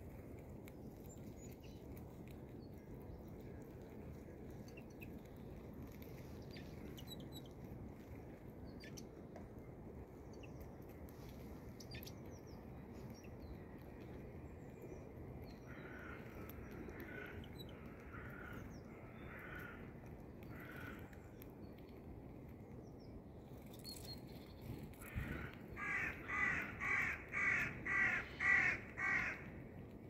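A bird calling outdoors: a faint run of repeated calls around the middle, then a louder series of about eight calls, roughly two a second, near the end, over a steady low background noise.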